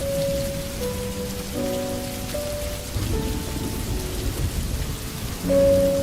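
Steady rain with thunder rumbling low, under a soft melody of held notes that change every second or so; a louder note enters about five and a half seconds in.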